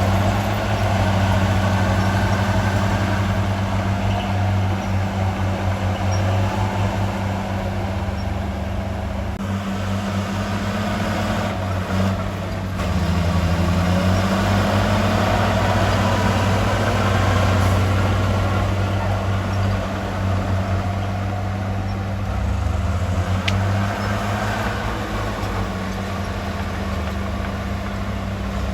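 Heavy diesel engine of earthmoving equipment running steadily, its pitch dipping briefly and recovering twice.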